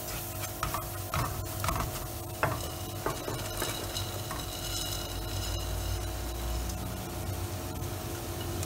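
Onions and spices sizzling in oil in a pot while soaked rice is poured in from a glass bowl. A spatula scrapes and taps against the pot a few times in the first three seconds.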